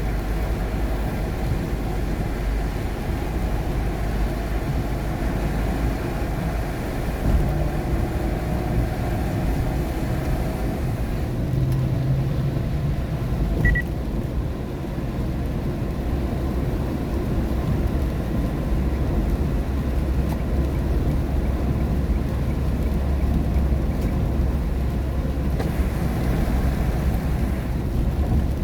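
Steady interior road noise of a car driving in the rain: a deep rumble of tyres on wet road and the engine, heard from inside the cabin. The higher hiss drops away for a while in the middle and comes back near the end.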